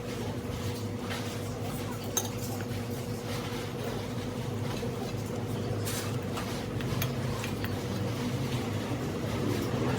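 Dishes and cutlery clinking during a meal, with a few sharp clicks over a steady low hum.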